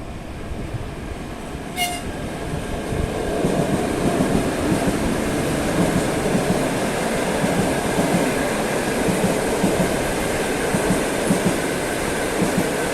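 A long passenger train passing close by on the rails, its wheels clattering steadily, growing louder about three to four seconds in and staying loud. A brief sharp sound comes about two seconds in.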